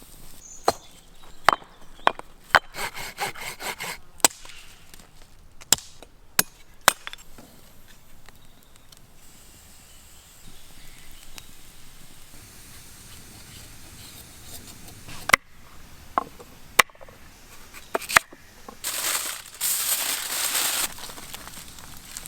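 Firewood being chopped: about a dozen sharp wooden knocks and cracks in two clusters, with a short scraping hiss among the first strikes and a louder hiss lasting about two seconds near the end.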